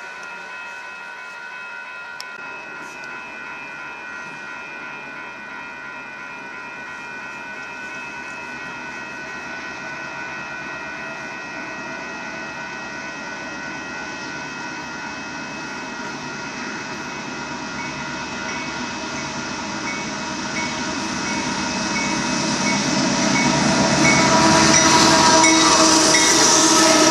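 Loaded aggregate hopper cars of a Union Pacific freight train rolling past, with a steady high-pitched squeal over the rumble of the wheels, growing louder over the last several seconds.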